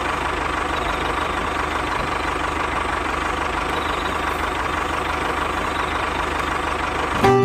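A motor running steadily, with a fast, even low pulsing.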